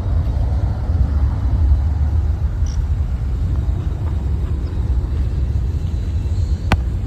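Wind buffeting the microphone outdoors, a steady low rumble, with one sharp click near the end.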